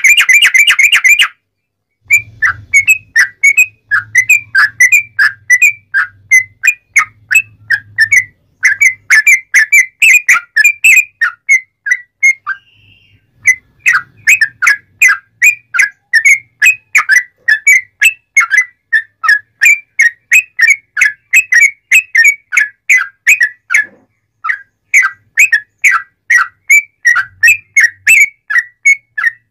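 Yellow-vented bulbul (trucuk) singing loudly: a fast chattering run of whistled notes, about three or four a second, with a dense rapid burst at the start and brief pauses a second or so in, around the middle, and about five seconds before the end.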